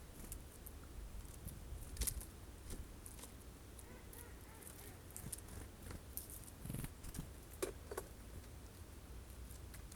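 Birds feeding at a sunflower-seed feeder: scattered light clicks and taps of pecking, with a couple of brief lower sounds near 8 seconds.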